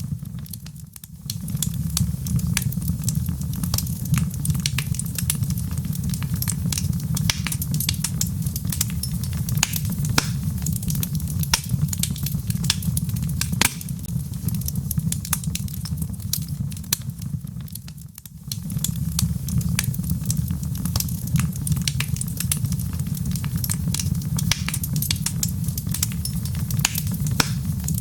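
Wood fire burning in a fireplace, crackling with many sharp pops and snaps over a steady low rumble. The sound briefly dips twice, about a second in and about two-thirds of the way through.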